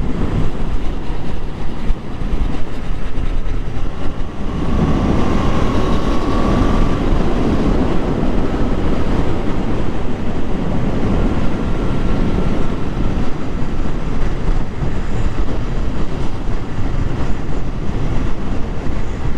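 Motorcycle on the move: the engine runs under a steady rush of wind on the microphone, swelling louder for a few seconds about five seconds in.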